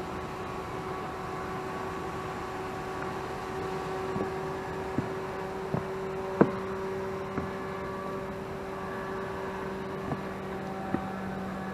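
Small private plane's engine humming steadily overhead, its pitch holding even, with a lower tone growing stronger about halfway through. Several sharp clicks sound close by in the middle of the stretch.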